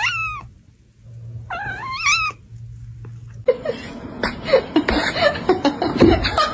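A domestic cat meowing: a long wavering meow at the start and another about two seconds in. Then comes a noisier stretch of short, quick cries.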